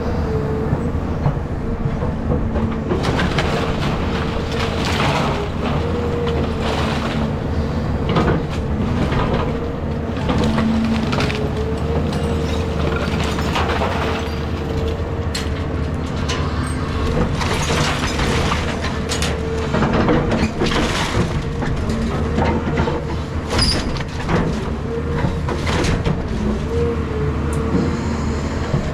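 Caterpillar 323 excavator running steadily with a wavering hydraulic whine, while its bucket and thumb crunch and crack through house demolition debris in repeated bursts.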